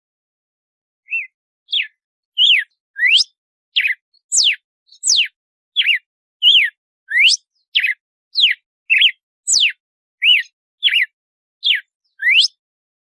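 Red-cowled cardinal (galo-de-campina) singing its 'açoite' song: a run of short whistled notes, some sweeping up and some sweeping down, about two a second, starting about a second in.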